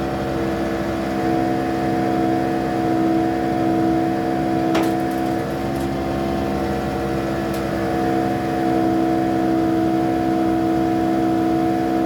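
Vacuum tanker truck running steadily on suction, drawing melted grease up through the hose. Its drone holds an even pitch, with a couple of light clicks about five and seven and a half seconds in.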